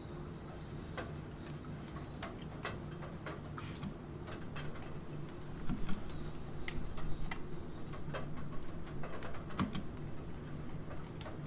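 Computer keyboard typing, irregular keystroke clicks that come faster and louder about halfway through, over a steady background of rain.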